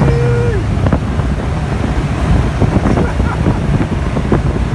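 Car on the move, heard from inside, with a low road rumble and wind buffeting the microphone.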